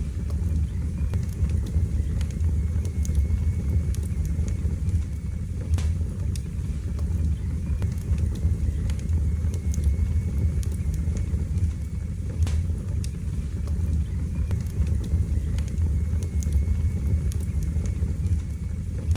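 Wood fire burning in a fireplace: a steady low rumble of flames with scattered sharp crackles and pops, one standing out about six seconds in and another about twelve seconds in.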